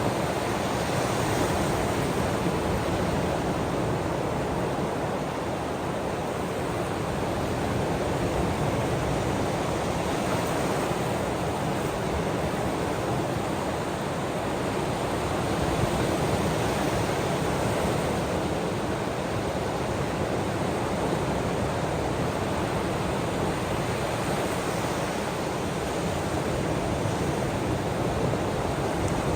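Ocean waves washing in, an even rushing noise that swells and eases slightly over several seconds.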